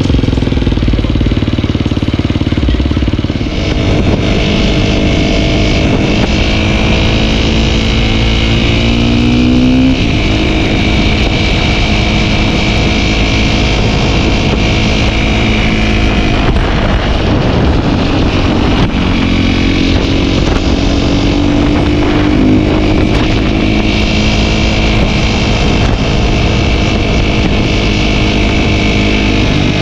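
Dirt bike engine running under way, its pitch climbing steadily about eight seconds in, dropping back suddenly, and rising again more gently later on.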